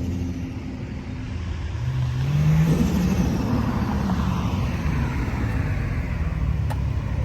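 Modified car's engine idling, then revving up as it pulls away about two seconds in, the pitch climbing and then falling off as it drives past.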